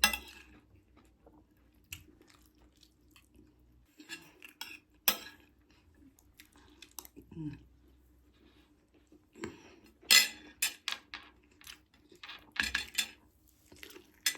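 Cutlery clicking and scraping against a plate or food pack during a meal of jollof rice and fried turkey, in scattered sharp clicks with a quick run of them about ten seconds in.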